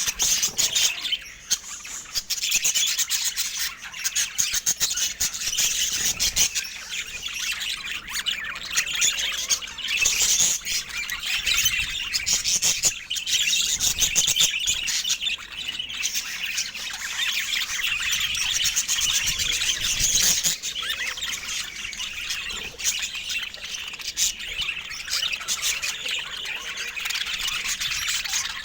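Budgerigars chattering: a steady, dense stream of rapid chirps, warbles and squawks.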